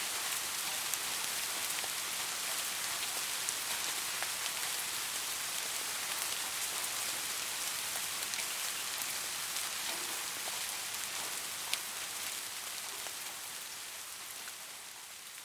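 Steady rain falling on a surface, an even hiss with scattered sharp drip ticks, fading out gradually over the last few seconds.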